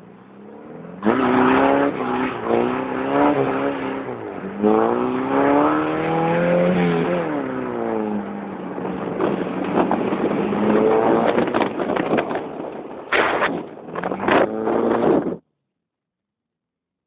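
Moskvich car engine being driven hard on an ice track, its pitch rising and falling again and again with acceleration and gear changes. A few sharp knocks come near the end, and then the sound cuts off suddenly.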